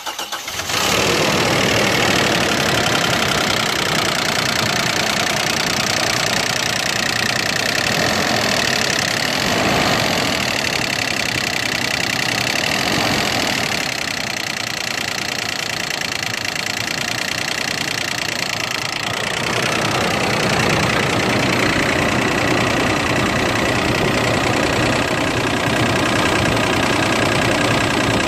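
Toyota Land Cruiser Prado 120's 4.0-litre 1GR-FE V6 petrol engine running cold with a rattle like a diesel tractor. The owner says the rattle stops once the engine reaches temperature, and new timing chain, tensioners and oil have not cured it.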